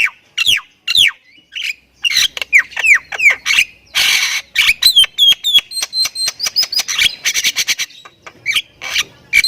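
A myna (jalak kebo) in full, varied song: a quick string of sharp, falling whistles, a harsh rasping burst about four seconds in, then fast clicking notes and a high held whistle.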